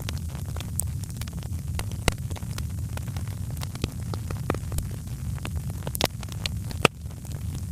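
Wood fire crackling: scattered sharp snaps and pops over a steady low rumble of the flames, with a couple of louder pops near the end.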